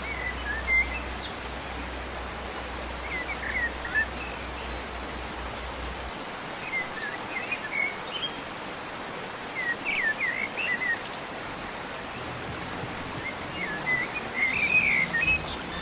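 A small bird singing short phrases of quick chirps every few seconds, over a steady hiss of outdoor background noise.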